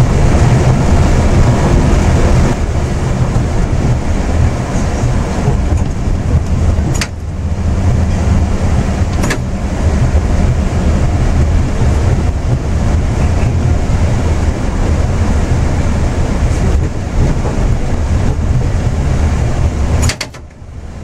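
Yurikamome rubber-tyred guideway train running at speed, heard from the driver's cab: a steady low rumble of tyres on the guideway, with a few sharp clicks and a brief drop in level near the end.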